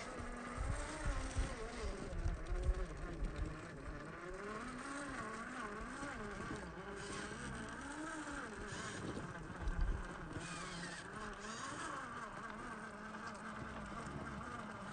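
Electric motor and gear whine of 1/10-scale RC crawler trucks, its pitch rising and falling as the throttle is worked. Low knocks in the first few seconds and one about ten seconds in.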